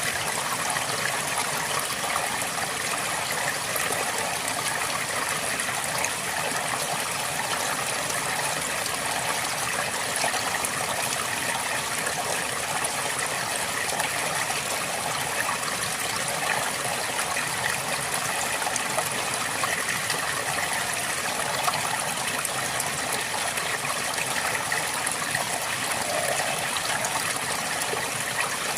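Flowing river water: a steady rush with fine trickling and splashing throughout.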